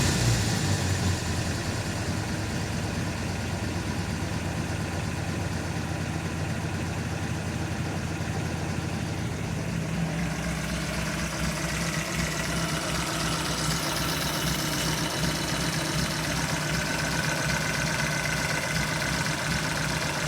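Austin EB65's engine idling steadily, with the tail of a rev dropping away right at the start.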